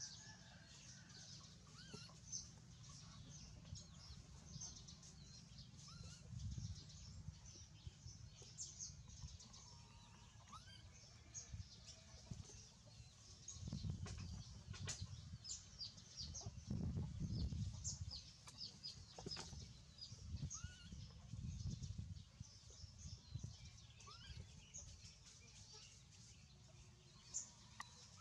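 Faint outdoor ambience: small birds chirping busily, with a few short rising calls and stretches of low rumble, strongest around the middle.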